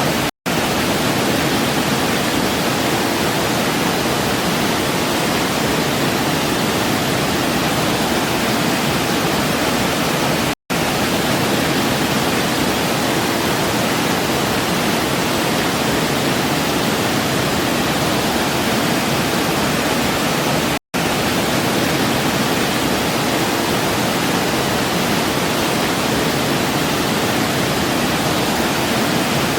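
Waterfall water rushing in a steady, even wash. The sound cuts out for an instant three times, about ten seconds apart, like the seams of a looped recording.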